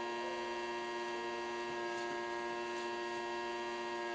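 Vacuum cleaner motor running steadily: a constant hum with several fixed tones.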